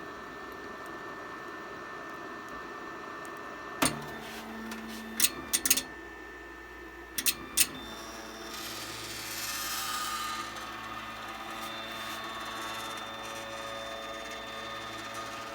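FLSUN delta 3D printer's stepper motors whining as the carriages move, with a handful of sharp clicks in three small groups between about 4 and 8 seconds in. From about 8 seconds in, the motor noise grows louder and rougher, with a steady high whine.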